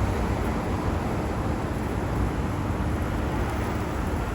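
Steady city street ambience: a continuous low rumble of passing traffic, with no distinct events standing out.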